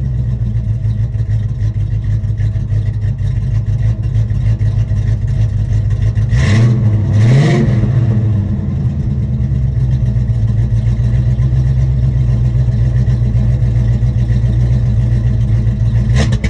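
Oldsmobile Cutlass Supreme engine idling through Hedman headers, an X-pipe and Black Widow Race Venom mufflers dumped out the sides, blipped twice in quick succession about halfway through, each rev rising and dropping straight back to idle.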